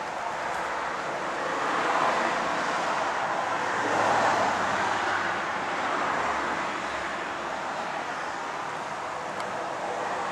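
Road vehicle noise: a steady rush of tyres and air with no clear engine note, swelling about two seconds and again about four seconds in.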